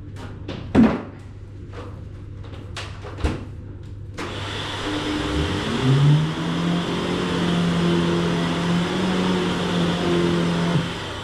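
A few knocks and clicks from the Shark Stratos XL Pet Pro upright vacuum being handled. About four seconds in the vacuum switches on: a sudden rush of air, with a motor hum that rises in pitch as it spins up and then runs steadily. It cuts off shortly before the end.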